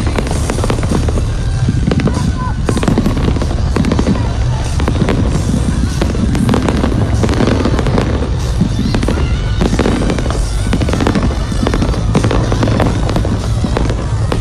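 Fireworks display: a dense, unbroken barrage of bangs and crackling over a steady low rumble.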